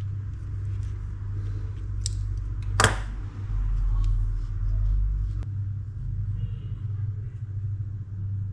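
A few sharp clicks of small reel parts being handled and set down, over a steady low hum.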